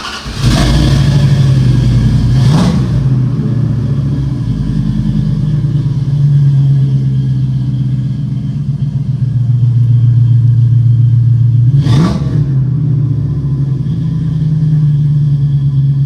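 Dodge Ram's 5.2 Magnum V8 starting through a new, louder aftermarket exhaust with its big stock muffler removed. It catches about half a second in and then idles with a deep, steady exhaust note. It is blipped twice, once a couple of seconds in and again near the end.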